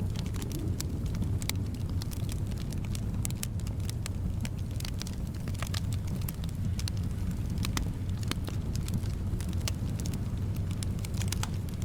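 Wood fire crackling in a fireplace: many irregular sharp pops and snaps over a steady low rumble of the flames and soft wind.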